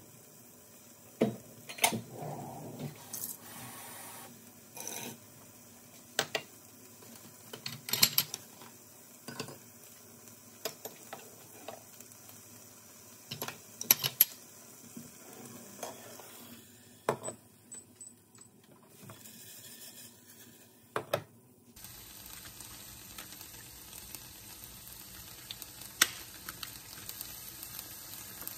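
Kitchen prep sounds: scattered clicks and knocks of a cup, bowls and utensils being set down on a counter and a glass induction hob. A few short high beeps come about two-thirds through, then about three-quarters through a steady sizzle starts as diced bacon begins to fry in the pan.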